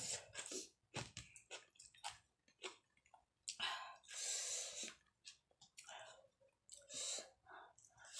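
Close-up eating sounds: wet chewing with many short smacks and clicks, as rice and mustard greens are eaten by hand. A longer hissing sound comes about four seconds in.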